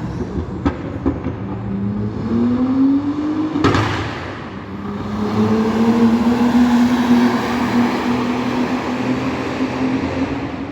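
Car engine accelerating, its pitch rising in two long climbs with a sharp break about four seconds in.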